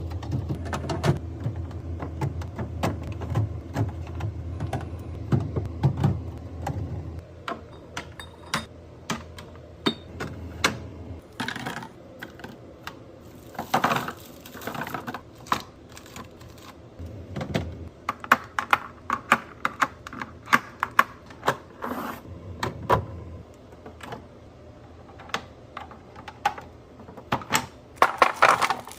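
Many sharp taps, clicks and clacks of food containers and packaged items being handled and set down while a fridge and pantry are restocked. A low hum runs under the first seven seconds or so.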